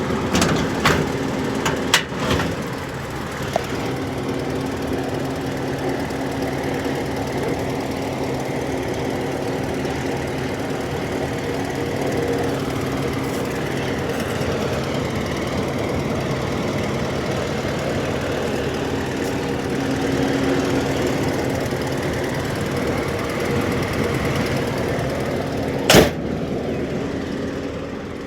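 Willys Go Devil L134 four-cylinder flathead engine idling steadily, with a few sharp clicks; the loudest click comes near the end.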